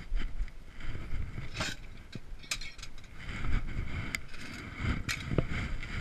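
Wind rumbling on the microphone, with a few sharp metallic clicks and knocks from working a car's factory jack during a roadside tire change.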